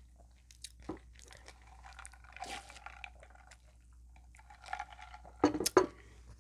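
Quiet close-miked eating sounds: small wet mouth clicks and smacks with light taps of food and dishes, and a few sharper clicks about five and a half seconds in.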